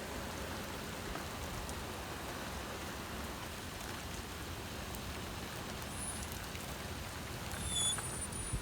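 Heavy rain pouring steadily in a severe thunderstorm, an even hiss.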